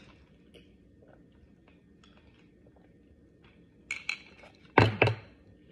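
Tableware handled during a meal: faint small clinks, then a cluster of clicks about four seconds in and a loud clatter of a utensil or dish knocking against the plate or tray just before the end.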